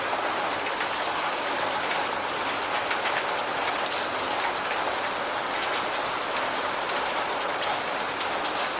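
Steady rain: a dense, even hiss of falling rain with scattered individual drop ticks.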